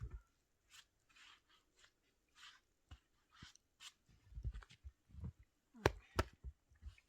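Camping gear being handled: irregular rustles and soft knocks, with two sharp clicks close together about six seconds in.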